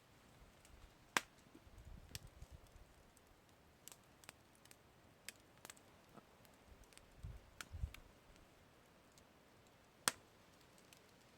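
Campfire crackling: scattered sharp pops and snaps from burning wood, the two loudest about a second in and near the end, with two brief low rumbles in between.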